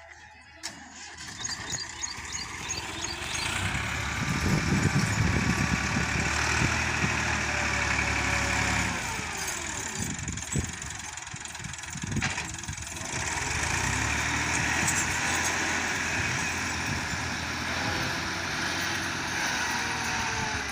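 Massey Ferguson 260 tractor's diesel engine running hard, building up over the first few seconds, then revs dropping around ten seconds in before it picks up again.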